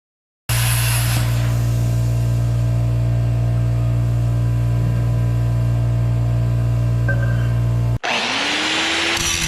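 A metalworking power tool running steadily with a strong low hum. About eight seconds in, the sound cuts abruptly to another tool spinning up to a steady whine.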